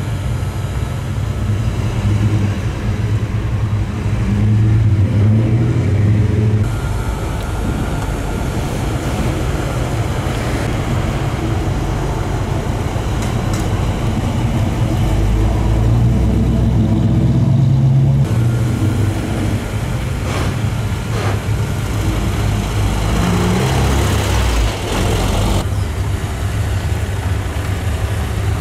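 Engines of hot rods and custom American cars running and pulling away one after another, with a steady low rumble and the revs rising now and then: a lowered Chevrolet S-10 pickup first, a 1955 Chevrolet sedan in the middle, and a Ford Model A hot rod near the end.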